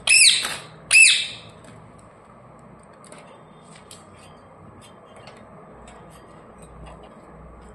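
Pet parrot giving two loud, shrill squawks about a second apart, each rising then falling in pitch, as two parrots squabble and bite at each other. After them come only faint scattered clicks.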